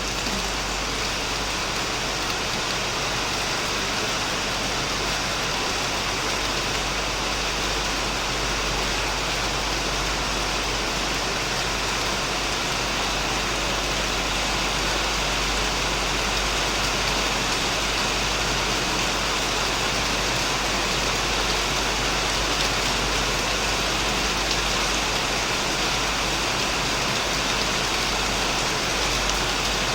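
Heavy rain falling steadily on a shed roof and surrounding plants, an even, dense hiss with no letup.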